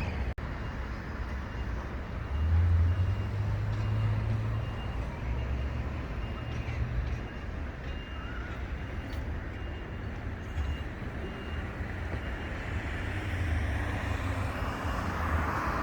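Outdoor background noise with an uneven low rumble, and a vehicle's reversing alarm beeping steadily a little faster than once a second for several seconds, starting a few seconds in.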